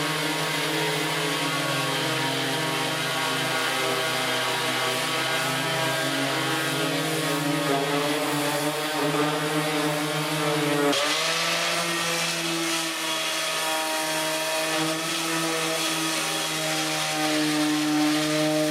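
A power tool's motor running steadily, its pitch dipping briefly and shifting about eleven seconds in.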